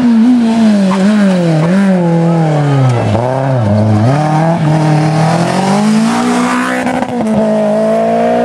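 Rally car engine slowing for a hairpin: the revs fall over the first four seconds with short blips as it changes down, then climb steadily as the car accelerates out, holding steady near the end.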